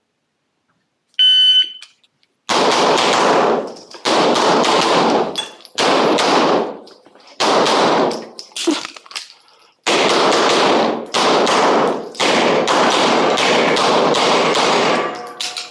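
An electronic shot timer beeps once, then a Smith & Wesson M&P9 Pro 9mm pistol fires a rapid IPSC course of fire: fast strings of shots broken by short pauses for movement and reloads, ringing with indoor range echo.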